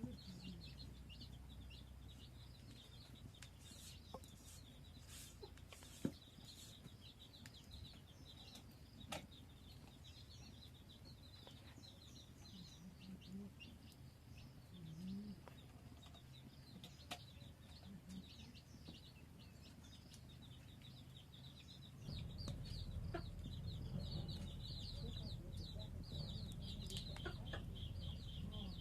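Chickens clucking a few times at a low pitch over steady high chirping. About three-quarters of the way in, a low rumbling noise rises and stays.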